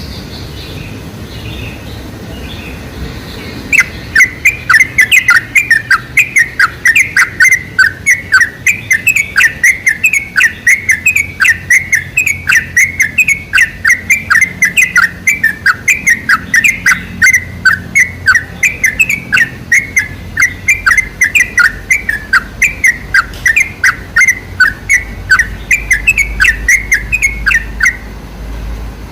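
Yellow-vented bulbul (trucukan) singing: a long, rapid run of short, loud repeated notes, several a second. It starts about four seconds in, after a few faint chirps, and stops shortly before the end.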